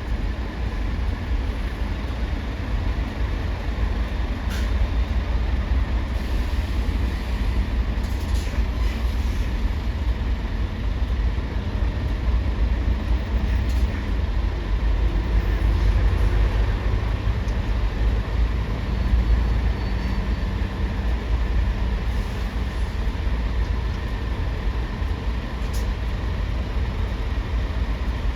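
Steady low rumble of heavy engines running, with a few faint clicks.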